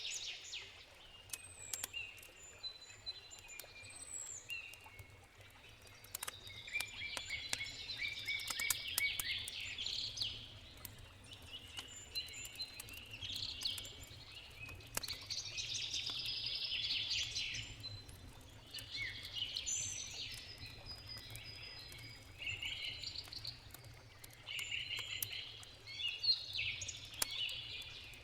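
Songbirds singing in repeated trills and chirps, over the sharp pops and crackles of a campfire and a low steady rush.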